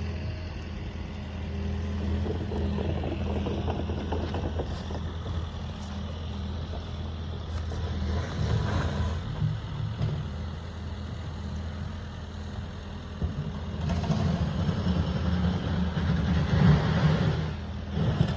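A steady low engine hum with a rushing noise over it, growing louder about halfway through and again near the end.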